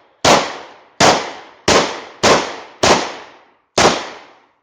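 German P.08 Luger pistol firing 9mm rounds: six shots in a steady string, a little under a second apart, each trailing off in a short echo.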